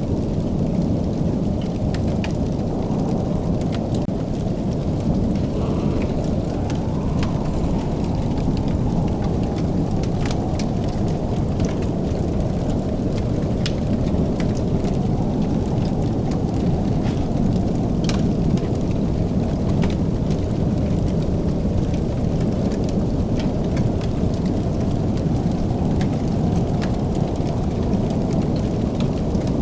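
Fire burning in a fireplace: a steady low roar with scattered sharp crackles and pops.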